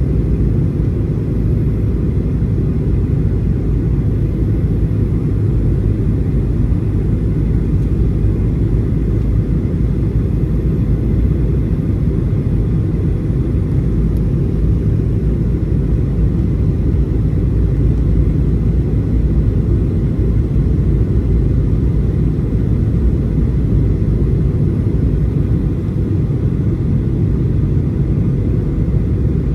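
Boeing 737-800 cabin noise heard from a window seat: a loud, steady low rumble of the CFM56-7B engines and air noise, unchanging throughout.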